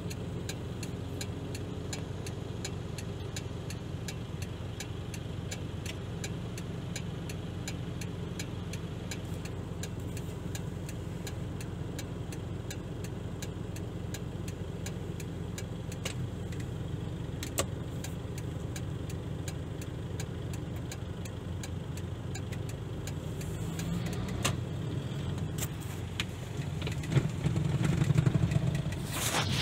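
Vehicle engine idling, heard from inside a stopped car, a steady low hum with a regular light ticking over it. It grows louder near the end.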